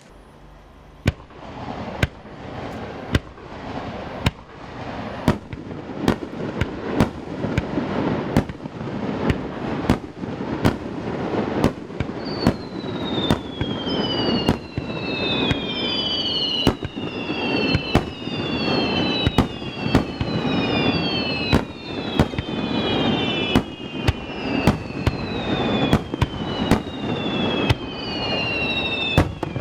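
Fireworks display: a rapid run of sharp aerial shell bursts, one or two a second, thickening into a dense barrage, with falling whistles repeating from about twelve seconds in. The booms echo off the surrounding mountains.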